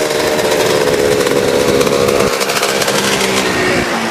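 Classic motocross motorcycle engines running steadily, their pitch drifting slightly lower in the second half.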